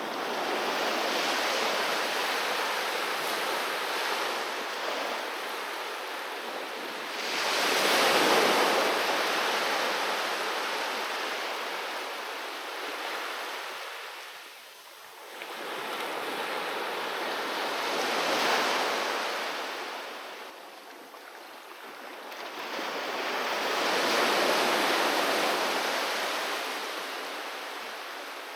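Sea waves breaking on a beach: surf swelling and washing back in long surges, one every seven or eight seconds, the loudest about eight seconds in.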